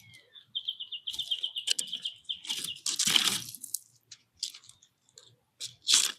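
A small songbird's fast trill of evenly repeated high notes for about two seconds, followed by scratchy rustling bursts at the feeder, the loudest about three seconds in and another near the end.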